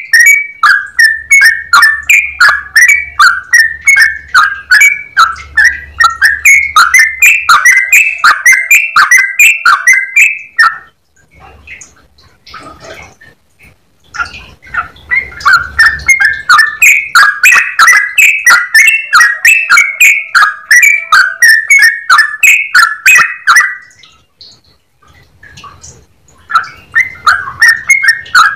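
Yellow-vented bulbul singing its long, rapid, clear song: a fast run of bubbly chattering notes, several a second. It sings in three long runs, breaking off at about eleven seconds and again at about twenty-four before starting up again.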